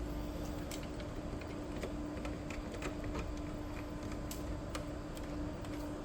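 Irregular light clicks and taps of plastic parts being handled while a new printhead is fitted into an Epson L3256 printer. A steady low hum runs underneath.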